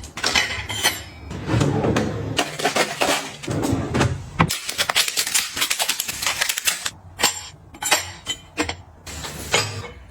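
Kitchen containers and packages being handled: repeated clinks and knocks as items are set down and moved, with a couple of seconds of steady rustling noise midway.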